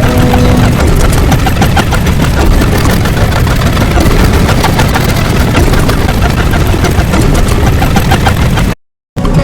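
A loud, steady, engine-like rumble, heavy in the low end, that cuts off abruptly about nine seconds in before coming back.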